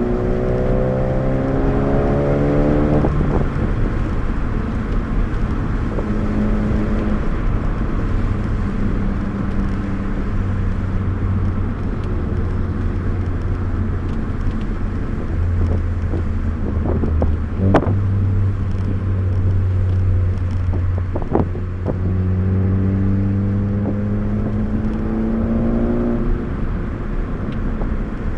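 2013 Ford Focus ST's turbocharged four-cylinder engine heard from inside the cabin, pulling up through the revs with an upshift about three seconds in, then holding lower and steadier revs with two sharp clicks in the middle, before climbing again with another shift near the end.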